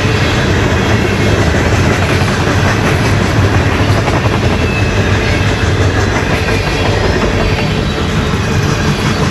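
CN freight train's cars rolling past at close range: a steady loud rumble of wheels on rail, with clicking as the wheels cross rail joints.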